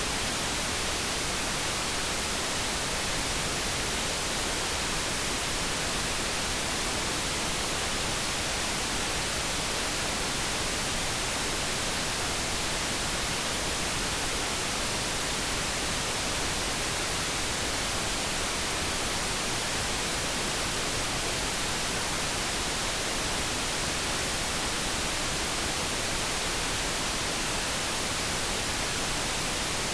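Steady generated noise for focus: an even, unchanging hiss across the whole range, with no tones or changes.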